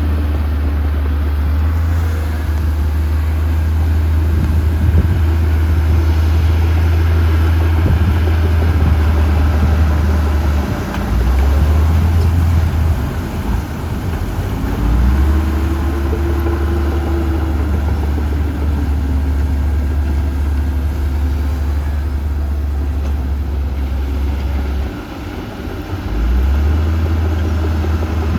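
Diesel engine of heavy earthmoving machinery running, with a deep low rumble that drops out briefly a few times. About halfway through, the engine's pitch rises and falls once as it revs up and settles.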